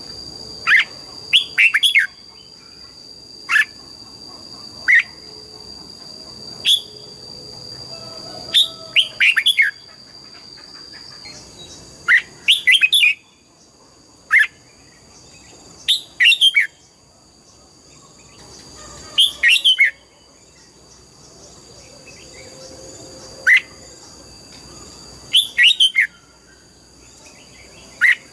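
Red-whiskered bulbul singing in short, loud phrases, single sharp notes alternating with quick runs of three or four notes, every second or two. A steady high-pitched whine runs underneath.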